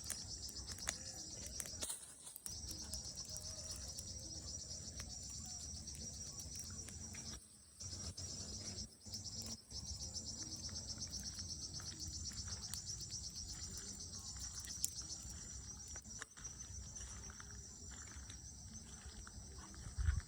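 Evening chorus of crickets trilling steadily in a high, pulsing band, over a low rumble, with a few sharp pops and the sound cutting out briefly several times.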